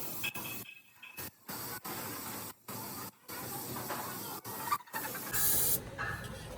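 Compressed-air hiss in the rim workshop, cutting abruptly on and off several times, with a louder, sharper burst of hiss about five seconds in.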